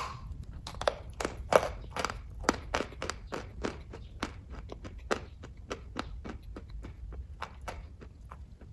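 Close-miked chewing of soft kaju katli (cashew fudge): a quick, irregular run of wet mouth clicks and smacks, opening with one sharp click and thinning out over the last few seconds.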